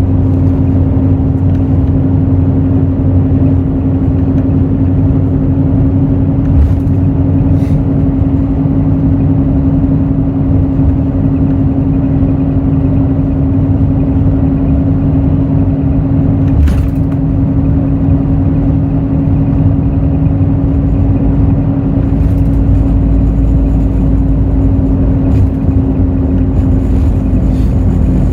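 Hino J08E-VD inline-six diesel of a Hino RN8JSVU bus running at a steady speed: a constant, unchanging engine drone with road noise. A few short clicks or rattles come through, about seven, eight and seventeen seconds in.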